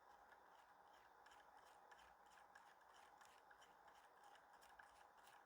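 Near silence with a faint run of quick small clicks from the watch, typical of its crown and setting works being turned to scroll the hands through the time.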